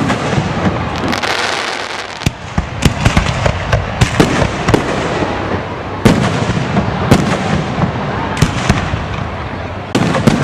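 Fireworks display: a dense run of bangs and crackling bursts, going on without a break, with some of the loudest reports about two seconds in and around six and seven seconds in.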